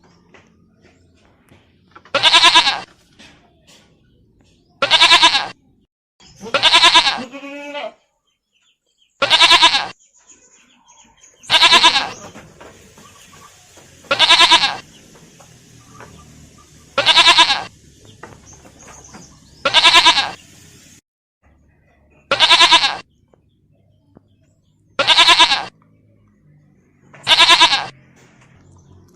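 Goat bleating: about eleven loud, quavering bleats of much the same shape, one roughly every two and a half seconds.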